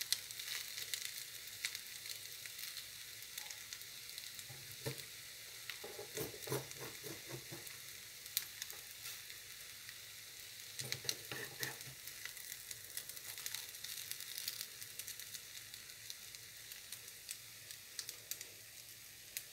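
Potato strips and scrambled egg sizzling steadily in a frying pan. A metal spoon scrapes and clinks against the pan in two spells, about six seconds in and again about eleven seconds in.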